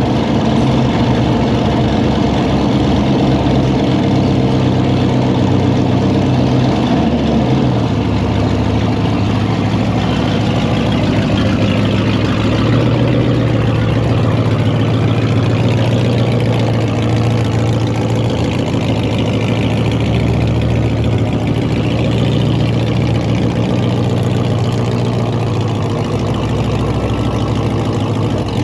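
An engine idling steadily just after being started, its pitch dropping and settling about eight seconds in.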